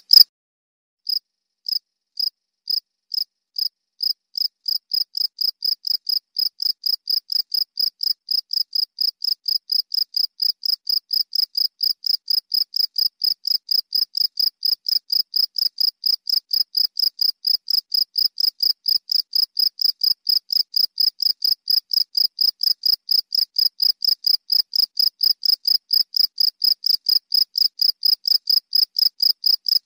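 A cricket chirping: evenly spaced, high, pure chirps that start a second in at about two a second and quicken to about three a second.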